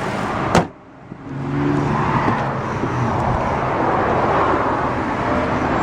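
Chrysler 3.8-litre V6 idling steadily, running smoothly. There is one sharp knock about half a second in, then a short dip before the steady running sound picks up again.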